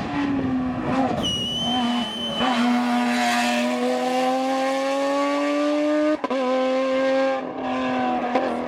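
Hillclimb race car accelerating hard up the course, engine pitch climbing steadily through a gear for about four seconds, then an upshift about six seconds in, with the engine pulling on after it. A brief high squeal sounds about a second in.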